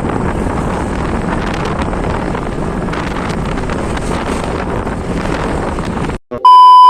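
Steady loud rushing noise of wind buffeting the microphone; it cuts off abruptly just after six seconds, and a loud, steady electronic beep begins near the end.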